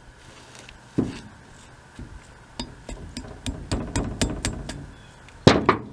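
Sharp metal-on-metal tapping, driving a stuck vane push rod out through the rotor of a Blackmer TDX2D vane pump: one knock, then a quick run of light taps about four or five a second, and two harder strikes near the end.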